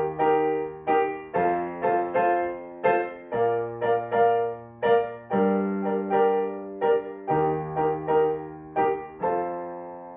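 Solo piano playing an instrumental melody of separate struck notes over held bass notes. About nine seconds in it ends on a final chord left ringing and fading away.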